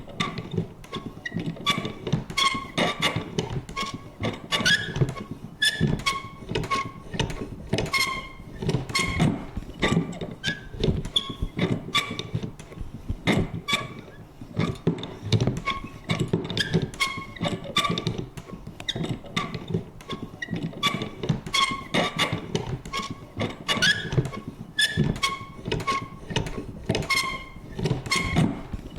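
Vintage paper punch worked over and over: a dense run of irregular clicks and knocks mixed with short squeaky creaks from the mechanism.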